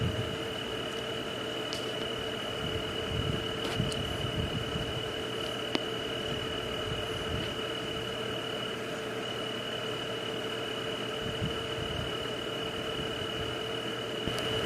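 Steady white-noise night ambience: an even hiss with a constant high-pitched drone and a lower steady hum, plus a few faint clicks and soft low rumbles.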